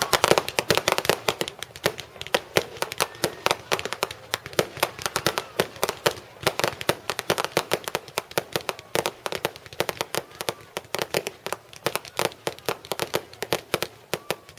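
Public display fireworks going off in rapid succession: a dense, continuous string of sharp pops and bangs, several a second.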